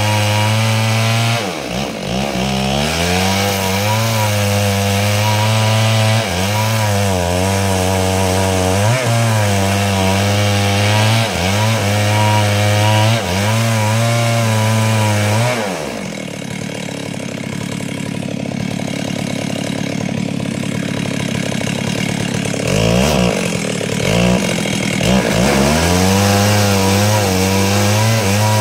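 Stihl two-stroke chainsaw at high revs ripping lengthwise through wood, the engine note dipping and recovering every couple of seconds as it bogs under the cut. About halfway through it drops to a lower speed for several seconds, then revs back up near the end.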